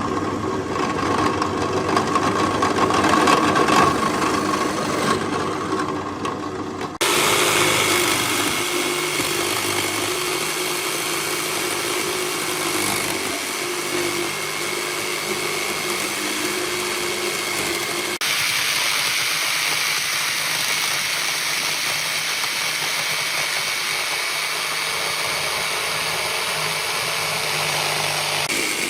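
A motor-driven machine running steadily with a constant hum and a whine, changing abruptly twice where the footage is cut.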